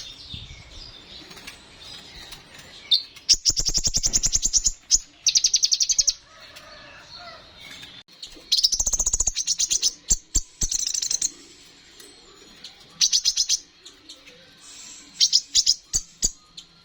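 A kolibri ninja sunbird singing hard: a series of rapid, high-pitched trilled phrases about a second long, five or so in all, with short sharp chips between them.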